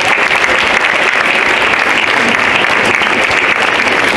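Congregation applauding steadily, dense clapping from many hands welcoming newly received church members.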